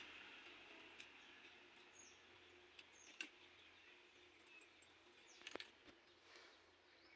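Near silence, with a few faint sharp clicks and several brief, faint high chirps of small birds.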